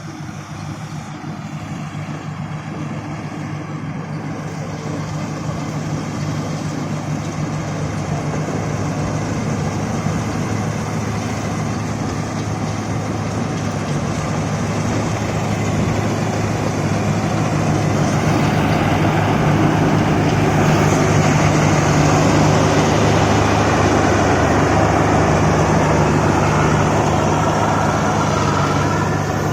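Heavy farm diesel engine running steadily with a deep, even hum, growing louder over the first two-thirds and then holding.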